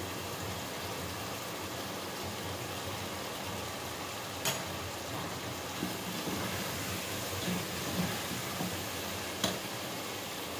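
Potatoes and onions frying in oil in a pot make a steady sizzle. Two sharp clicks about halfway and near the end, and a few softer knocks, come from utensils.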